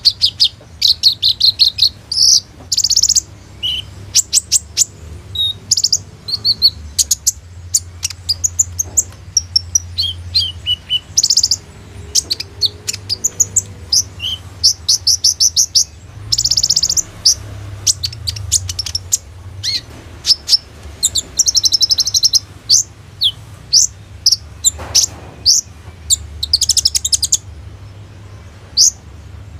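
Brown-throated sunbird (kolibri ninja) singing continuously: a rapid, high-pitched run of chirps, trills and short rattling phrases, full of phrases mimicked from other birds.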